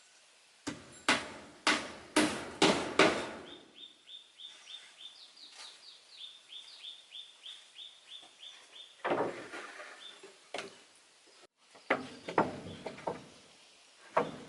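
A run of about six loud knocks, roughly half a second apart, then a bird's short high call repeated about three times a second for several seconds, then more irregular knocks.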